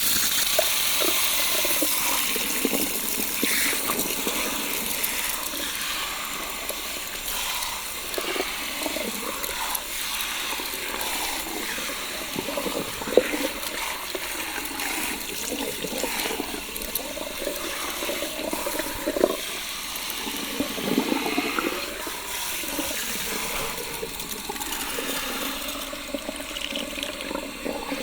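Water spraying steadily from a salon shower head onto hair at a shampoo bowl, with irregular splashing.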